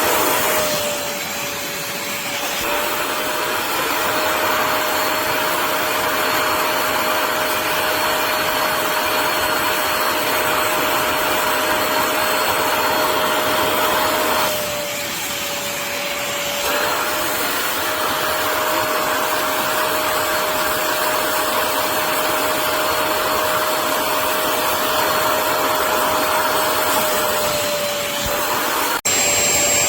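HAUSHOF StainZapper 400 W upholstery water vacuum running: a steady motor whine over a rush of suction air. The level and pitch dip twice for about two seconds, and the sound breaks off sharply near the end.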